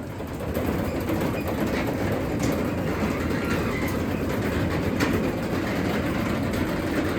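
Craftsman 3/4 hp DC belt-drive garage door opener running, closing the garage door with a steady rumble that starts at once and keeps going.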